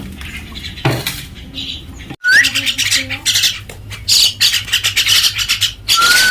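Baby common mynas squawking harshly and rapidly, the begging calls of chicks at feeding time. The calls start suddenly and loudly about two seconds in, with a short rising whistle among them.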